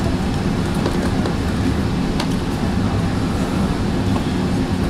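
Steady running noise of a Metrolink commuter train moving along the rails, heard from inside the passenger car, with one sharp click about two seconds in.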